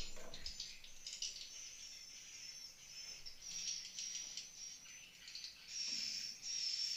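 Swiftlets twittering in a swiftlet house: a dense run of high, rapid chirps, growing louder and more regular, in repeated bursts, from about six seconds in.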